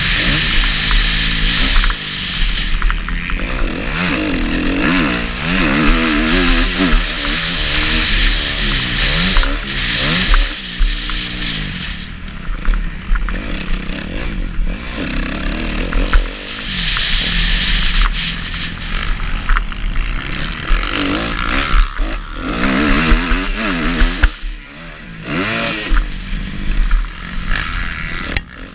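Kawasaki KX250F's single-cylinder four-stroke engine revving up and down again and again, as the bike accelerates and backs off around a motocross track, over a steady rushing noise.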